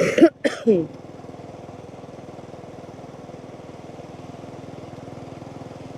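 Motorbike engine running steadily at an even cruising pace, heard from on the bike while riding, after a brief voice in the first second.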